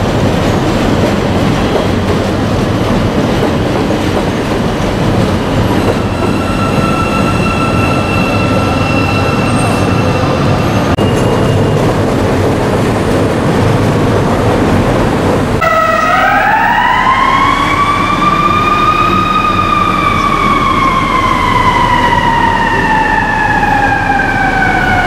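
Chicago 'L' 5000-series rapid-transit train running along an elevated station, a steady rumble of wheels on rail, with a steady high whine for a few seconds partway through. About fifteen seconds in the train sound cuts off and an emergency-vehicle siren sweeps up in pitch, then slowly falls.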